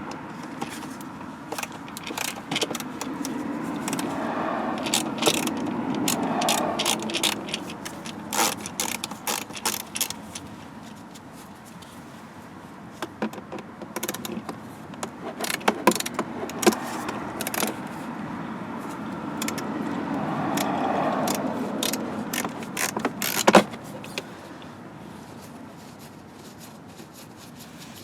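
Clicks, rattles and scrapes of tools and parts being handled during a car blower motor replacement. Two stretches of louder steady noise last a few seconds each, one early and one past the middle.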